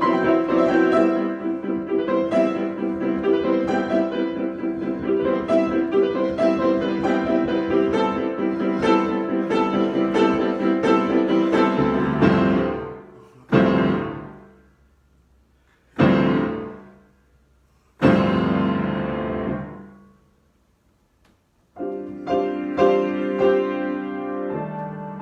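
Solo piano improvisation: a stretch of quick, busy notes, then three chords struck about two seconds apart and each left to ring out, a short pause, and the playing picks up again near the end.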